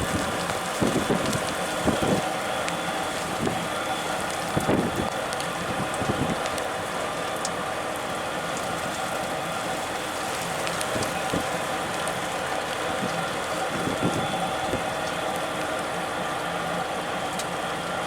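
A motor running steadily under a constant hiss, with several low thumps in the first six seconds and one more about fourteen seconds in.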